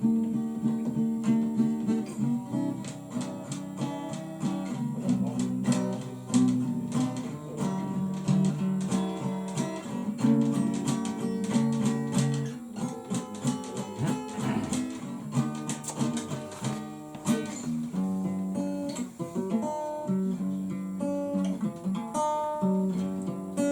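Acoustic guitar playing a run of chords, picked and strummed.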